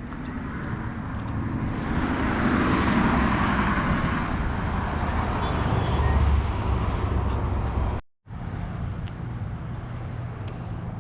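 Motor vehicle road noise, a steady rumble and hiss that swells for a few seconds and then eases, with a sudden break just after the middle.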